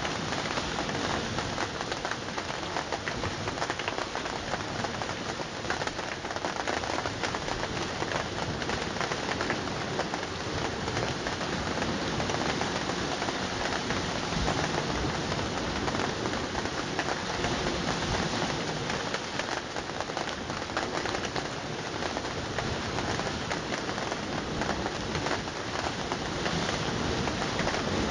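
Steady rain falling in a dense patter of drops, even throughout.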